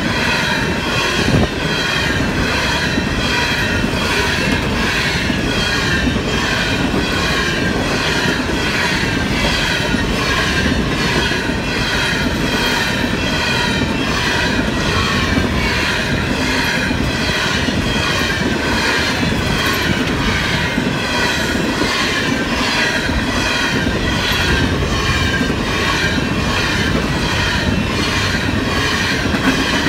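Coal hopper cars of a Canadian Pacific freight train rolling steadily past over a level crossing, wheels clattering on the rails, with a louder clank about a second in. Over it the crossing's warning bell rings on in an even rhythm.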